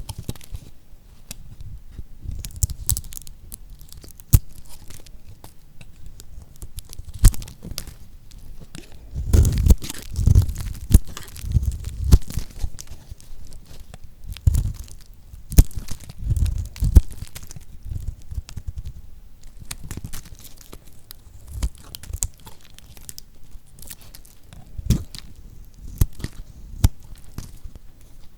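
Knife cutting through lacquered soap: irregular crisp crunches and cracks, some with heavier low thuds.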